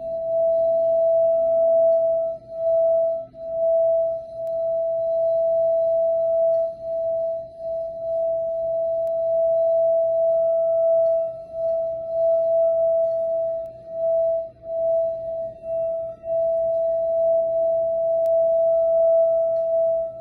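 Tibetan singing bowl kept singing as a single sustained tone that holds steady at one pitch, with brief dips and swells every second or two.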